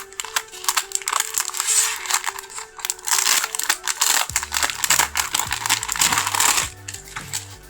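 Dense, rapid crinkling and crackling of craft material being handled, stopping about seven seconds in, over background music whose bass line comes in about halfway through.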